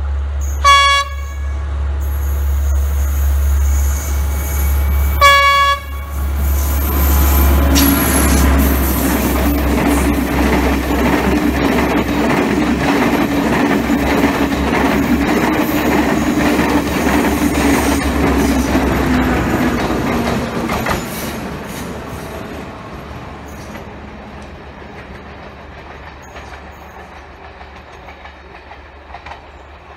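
Sri Lanka Railways Class S12 diesel multiple unit giving two short horn blasts about four seconds apart as it approaches. It then passes close by, its diesel engine running and its wheels clicking over the rail joints, and the sound fades away over the last several seconds.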